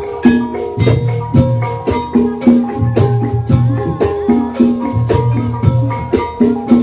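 Banyumasan gamelan music accompanying ebeg dance: pitched mallet instruments playing a repeating melody over a steady beat of low drum strokes.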